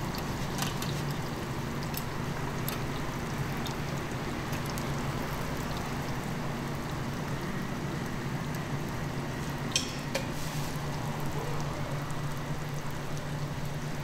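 Hotteok frying in oil on a griddle: a steady sizzle over a low hum, with a few short sharp clicks, the loudest about ten seconds in.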